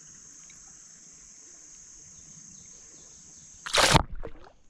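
Steady high-pitched buzzing of an insect chorus, cut off near the end by a short, loud burst of noise.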